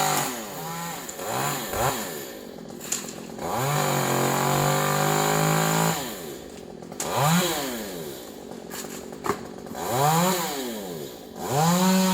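Two-stroke chainsaw revving repeatedly between idle and full throttle, with several short bursts and one longer steady full-throttle run of about two seconds a third of the way in.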